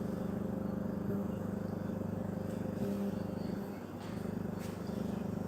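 CEC Deluxe 48-inch ceiling fan running, its motor giving a steady hum.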